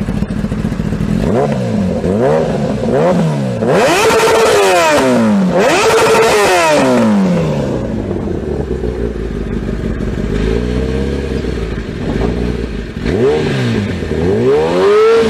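Motorcycle engine revved again and again in quick blips, its note rising and falling each time. Near the middle two longer revs are held briefly at the top before dropping back.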